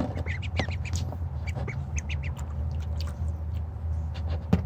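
Ducklings peeping in bath water: many short, high chirps mixed with little clicks and splashes, over a low steady hum.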